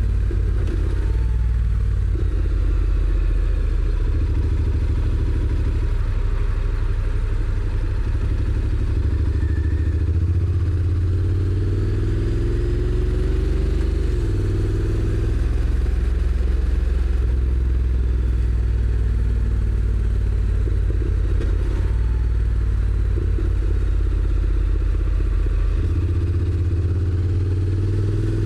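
Honda NC750X motorcycle's parallel-twin engine running on the move. Its pitch rises as it accelerates in the middle, drops suddenly at a gear change, and rises again near the end.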